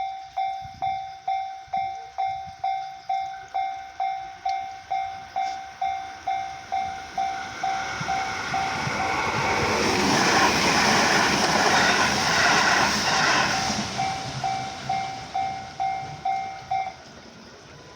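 Japanese railway level-crossing warning bell ringing steadily, a little under two dings a second, while a train passes through the crossing, its rumble and rush swelling in the middle and drowning the bell for several seconds. The bell cuts off about a second before the end as the crossing clears.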